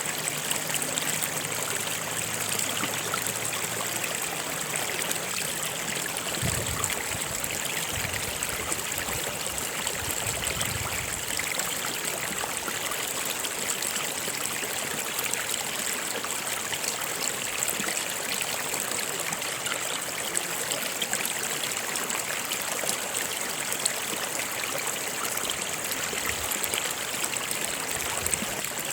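Stream water flowing steadily, an even, continuous rushing with no breaks.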